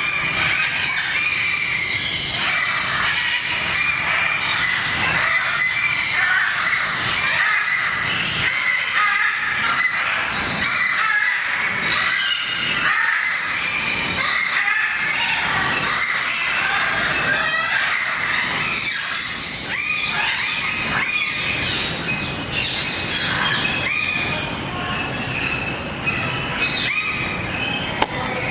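Many birds squawking and screeching at once, a dense, continuous din of overlapping high calls.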